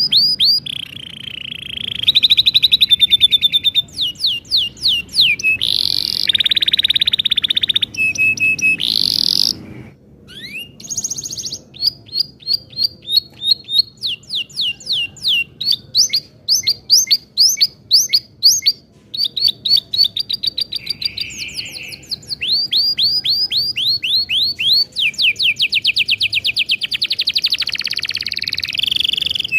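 Male domestic canary singing a long, continuous song. It alternates fast runs of repeated sweeping chirps with sustained rolling trills, with a short break about a third of the way in.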